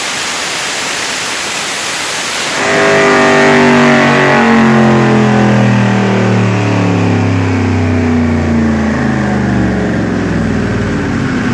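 Twin-turbo LS V8 of a Camaro on a chassis dyno at the end of a full-throttle pull. An even rushing noise gives way about two and a half seconds in to a loud, deep engine note that slowly falls in pitch as the engine and dyno rollers coast down.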